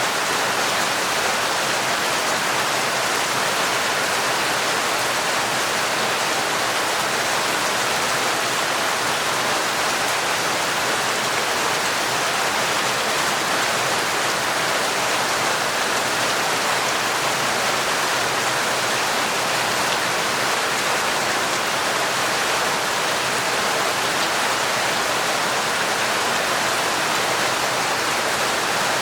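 Heavy, torrential rain falling in a steady, unbroken hiss, with no distinct single drops standing out.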